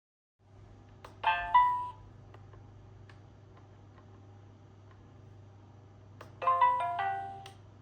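Smeg KLF04 electric kettle's electronic control panel sounding a short chime of a few stepped notes, twice, over a faint low hum.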